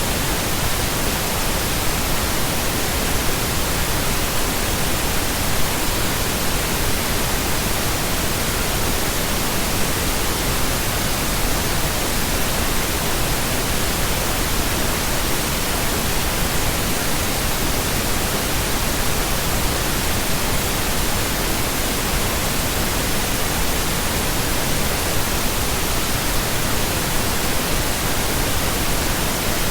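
Steady pink noise: an even, unchanging hiss spread across all pitches, with no variation or interruptions.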